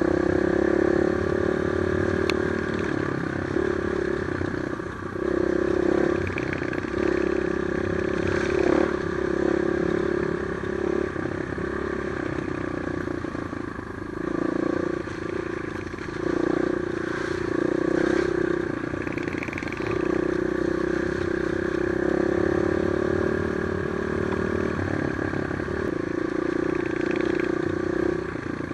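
Trail motorcycle engine running while being ridden, its note rising and easing off every few seconds as the throttle is worked, with a few sharp knocks.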